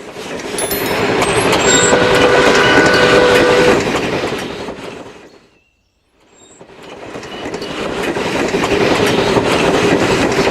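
A train passing twice: rumbling and clickety-clack that builds and fades away, then builds and fades again after a brief silence. A steady horn tone sounds through the middle of the first pass.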